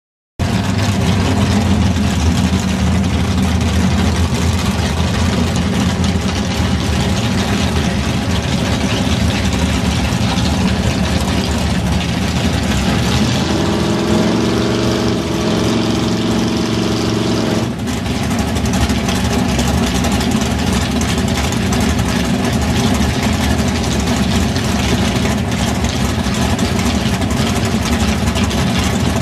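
Chevrolet Camaro drag car's engine running loudly at idle. Midway through, a higher steady note joins for about four seconds and cuts off abruptly.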